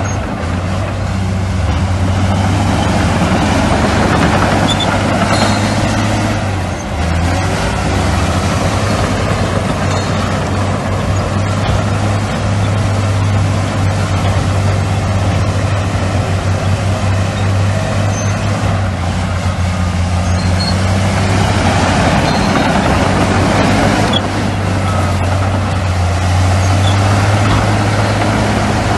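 Heavy diesel engine of earthmoving machinery running steadily, with a strong low hum and a brief dip about seven seconds in.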